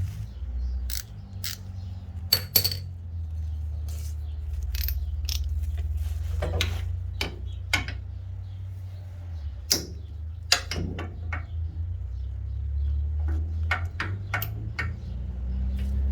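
Irregular sharp metallic clicks and clinks of a ratchet and socket tools working on a truck's rear bumper bolts, over a steady low rumble.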